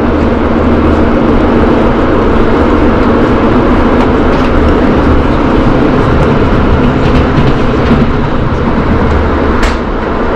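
Bernina Express train running along the track: loud, steady running noise with a few faint clicks.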